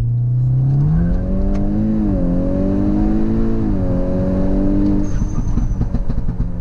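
Turbocharged four-cylinder engine of a tuned VW Golf 6 R, fitted with a full aftermarket exhaust and downpipe, heard from inside the cabin. The engine note rises about a second in, dips briefly, climbs again, drops near four seconds in, then holds steady: the car is accelerating through the gears.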